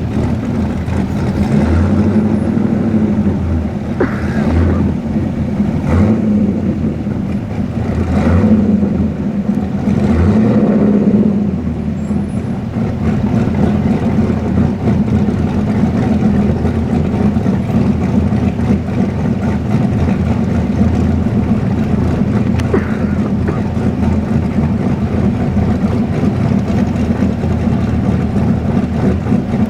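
Car engine running steadily with a low hum, and a few brief louder swells in the first dozen seconds.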